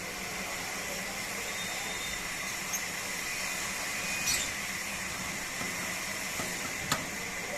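A steady hiss, with a few brief, high chirps from caged birds and a single sharp click near the end.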